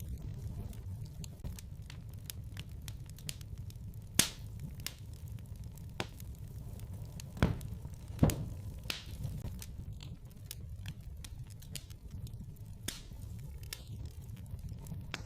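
Wood fire crackling in a fireplace: a steady low rumble of flames with scattered small crackles and a few sharp, louder pops around the middle.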